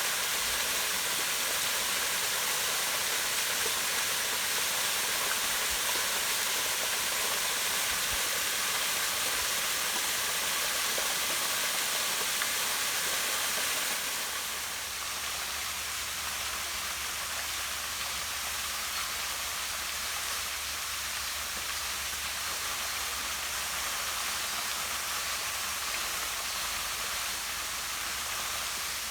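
A small waterfall pouring steadily over rocks into a pond, a continuous rushing splash. About halfway through, the sound drops slightly in level and changes tone.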